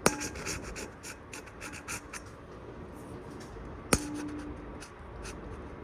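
Hunter Cedar Park ceiling fan running on high and wobbling. Over its steady running noise come light ticks and scrapes and two sharp ringing taps, one at the start and one about four seconds in.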